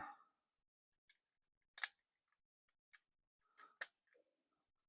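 A few faint, sharp plastic clicks of LEGO pieces being handled and pressed onto a build, about five in all, the loudest about two seconds in, with near silence between.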